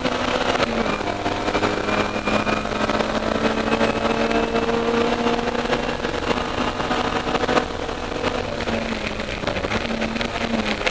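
Austin Mini Cooper race car's A-series four-cylinder engine running hard at steady high revs, heard from inside the cabin over road and wind noise. The note drops briefly about seven and a half seconds in.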